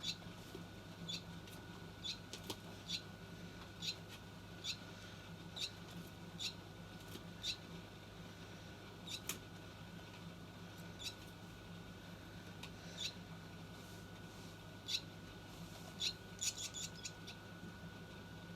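Baby bird peeping: short high cheeps about once a second, coming in a quick burst near the end, over a steady low hum.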